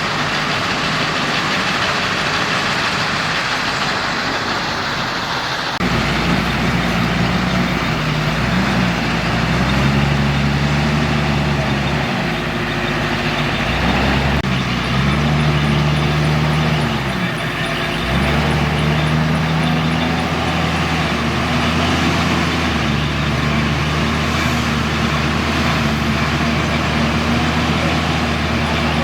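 Heavy diesel engine running under load. For the first six seconds or so it is a broad noisy rush; after that the engine note rises and falls over and over as the machine is revved and eased off in working cycles.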